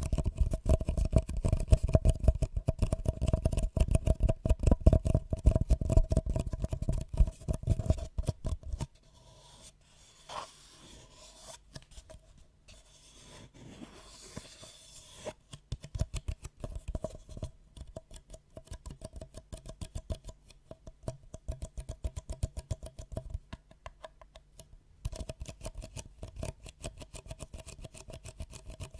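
Close-miked ASMR triggers: rapid clicking and tapping that is loudest in the first several seconds. The clicking gives way to a soft scraping rustle at about a third of the way through, then resumes more lightly.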